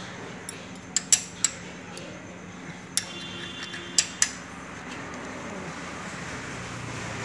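Metal hand tools clinking against engine parts: a few sharp, separate clinks, three close together about a second in and three more around three to four seconds in, over a steady low hum.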